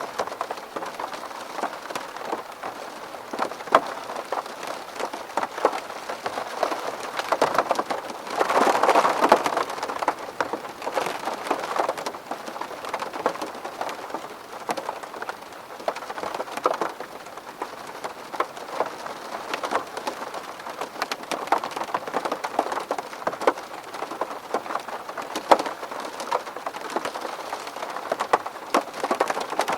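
Rain falling on window glass: a steady hiss of rainfall with many separate drops ticking against the pane, swelling heavier for a moment about nine seconds in.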